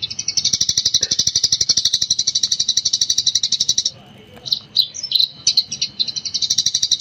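Eurasian tree sparrow chattering in a fast, unbroken run of high chirps, the rapid 'gecor' style. About four seconds in the run breaks into a few separate chirps, and near the end the rapid chattering starts again.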